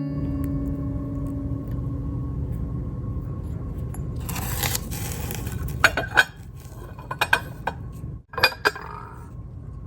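Sharp clinks and knocks of hard objects being handled, scattered through the second half, after a short rush of noise. A fading guitar-music tail and a low hum sit under the first few seconds.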